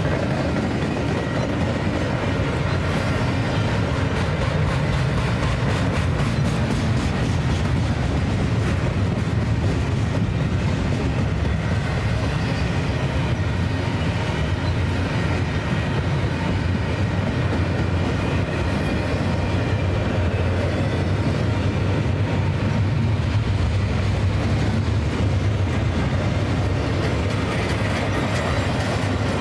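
Union Pacific double-stack intermodal freight train rolling past: a steady low rumble and rattle of loaded container well cars, with the clickety-clack of wheels over the rails.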